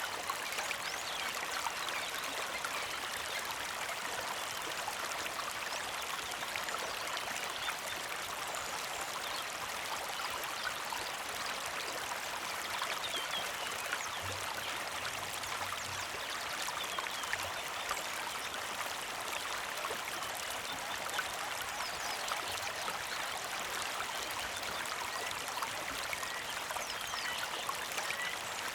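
Small creek flowing steadily, with a gentle trickle and splash of water.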